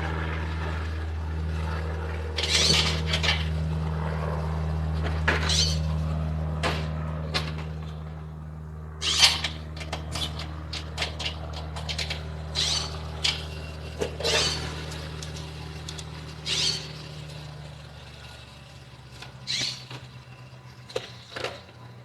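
A low, steady engine-like hum that slowly fades and dies away about three-quarters of the way through, with scattered short clicks and scrapes of hand work on the car's seat fixings.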